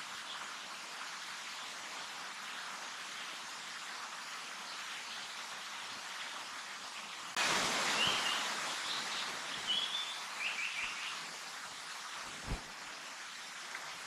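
A Japanese paradise flycatcher singing a short phrase of high notes that ends in three quick repeated notes, over a steady hiss of forest ambience that grows louder about halfway through. A single low thump near the end.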